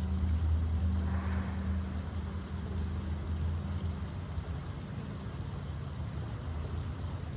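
Distant motor engine running steadily, a low drone whose pitch shifts a little at the start and again near the end.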